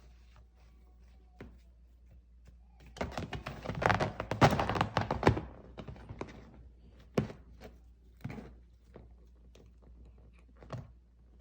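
A Russian Blue cat scrambling on a sofa after a wand toy: a dense run of scratches and thumps for about two and a half seconds, then a few single thumps.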